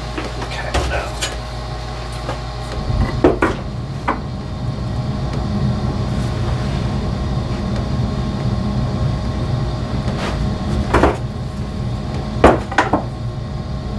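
A few sharp wooden knocks and clacks, spaced irregularly, as chair parts and tools are handled, over a steady low workshop hum.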